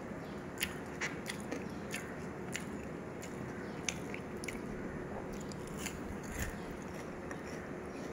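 Someone chewing crisp battered fried mushrooms close to the microphone: irregular crunchy crackles about once or twice a second over a faint steady background.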